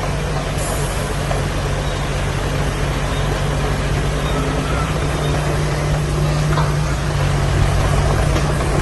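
Heavy earthmoving machine's diesel engine running steadily, a constant low drone.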